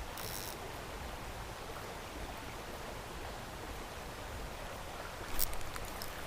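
Creek water running steadily, with a short cluster of clicks near the end.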